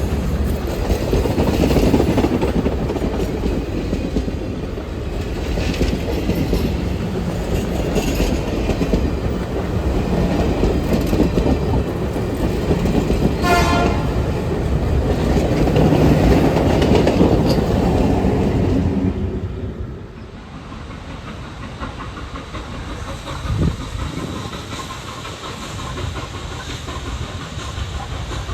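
A train passing close by, its wheels clattering over the rail joints, with one short signal blast about halfway through. The passing noise falls away suddenly near two-thirds of the way in, leaving a quieter rumble.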